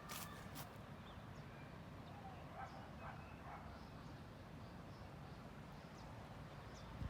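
Faint outdoor ambience: a steady low rumble with a few sharp clicks at the very start and faint bird chirps about three seconds in.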